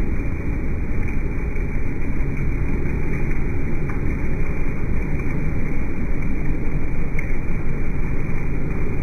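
Steady, loud machine noise that runs without a break.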